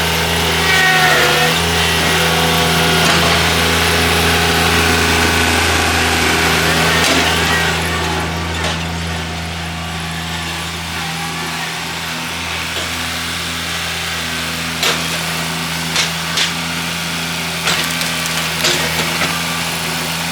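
An engine running steadily at idle after revving down, with several sharp knocks in the last few seconds.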